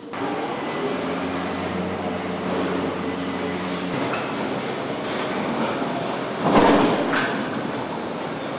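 Truck assembly-line machinery running with a steady pitched hum for about the first four seconds, then a brief louder rush of noise about six and a half seconds in.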